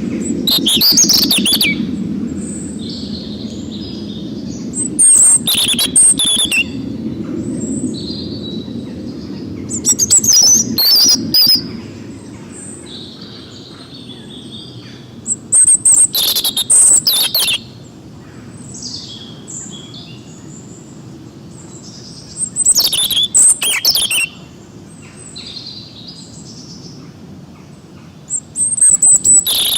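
Forest songbirds singing, with many short high chirps and whistles. About every six seconds a much louder, rapid chattering trill stands out over them.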